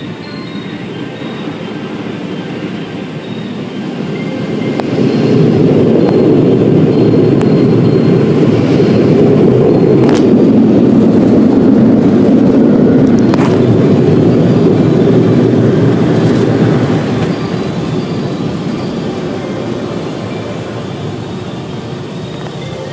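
A loud, even rumble that swells about four seconds in, holds with two sharp clicks, then fades away.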